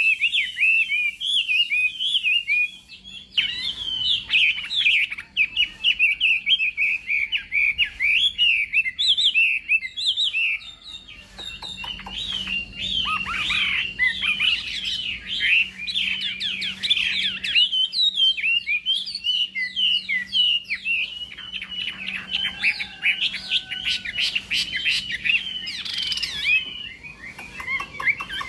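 Chinese hwamei (họa mi) singing a rapid, varied song of quick whistled notes and trills, with short breaks about three seconds in and again about eleven seconds in.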